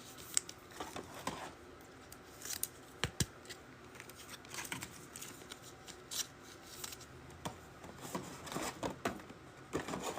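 Faint rustling, sliding and clicking of trading cards and pack wrappers being handled, in short scattered bursts.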